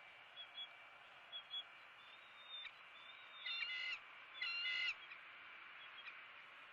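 Bird calls: a few short, high chirps, then two louder calls about half a second each, over a steady hiss.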